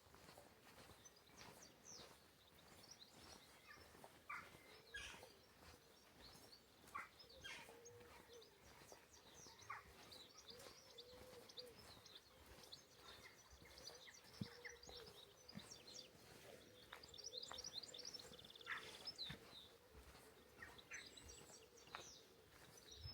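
Faint birdsong: several small birds giving many short chirps and whistles, over a faint steady low hum.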